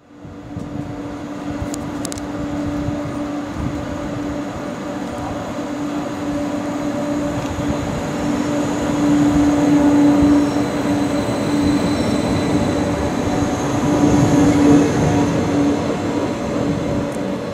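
Stadler GTW electric railcar running along a station platform and passing close by, with a steady electric hum from its traction equipment over the rumble of its wheels. It grows louder as it passes, loudest about ten seconds in and again near the end.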